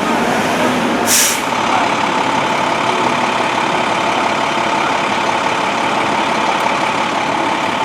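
Fire truck engine idling steadily, with a short air-brake hiss about a second in.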